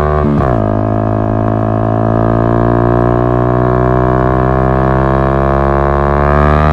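Yamaha MT-125's single-cylinder four-stroke engine through an Akrapovic exhaust, pulling under acceleration. The revs drop at an upshift about half a second in, then climb steadily.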